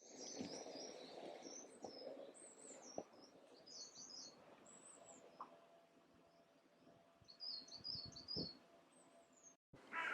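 Small birds chirping and twittering, faint, in repeated short high phrases, with a few soft knocks in the background.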